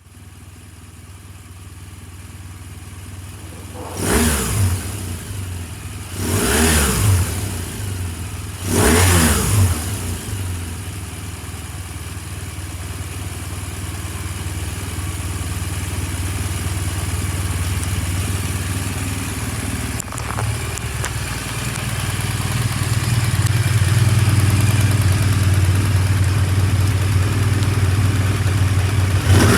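BMW R1200R flat-twin boxer engine running, blipped three times in quick succession a few seconds in, then running steadily and growing gradually louder.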